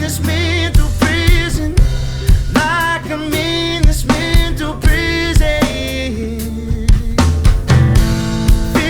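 Drum kit played along to a rock song: regular kick and snare hits with cymbals over a band track with bass and a wavering melody line.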